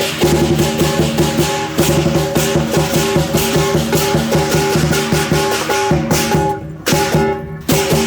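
Chinese lion dance percussion: a big drum with clashing cymbals and ringing gongs, played in a fast, steady beat that breaks off briefly twice near the end.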